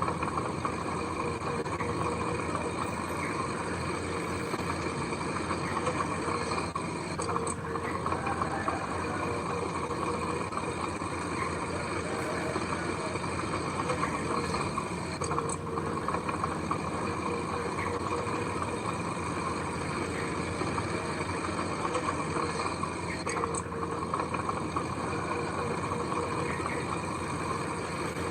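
Heavy machinery diesel engine running steadily.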